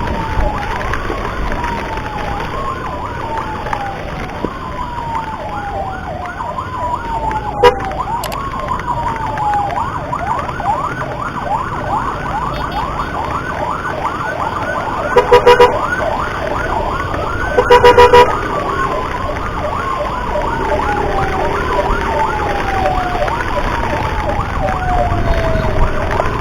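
Ambulance siren wailing in slow falling sweeps, switching to a fast yelp for several seconds partway through, then back to the wail. Two loud, stuttering horn blasts come a couple of seconds apart past the middle, over a steady low rumble of wind and road noise.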